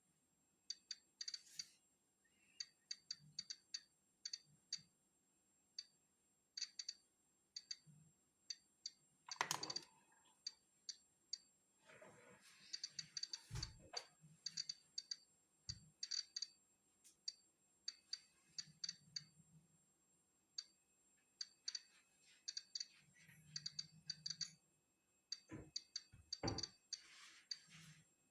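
Polon EKO-C digital Geiger counter clicking at random, uneven intervals, sometimes several in quick succession. Each click is a count of natural background radiation. A few low knocks and one short rustle are heard among the clicks.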